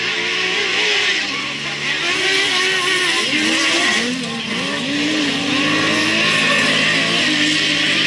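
Several speedway race car engines revving and passing, their pitches rising and falling over one another, over a steady noisy wash.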